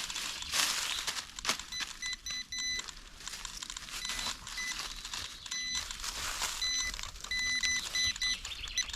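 Metal detector giving short, repeated high beeps at one pitch, in clusters as the coil passes over a metal target. Under the beeps, a crackling rustle of dry forest litter with scattered clicks.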